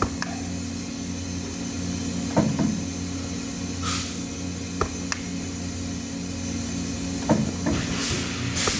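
Steady machine hum in a welding workshop, with scattered sharp clicks and knocks of handled metal parts and a few short hisses, about 4 s in and twice near the end.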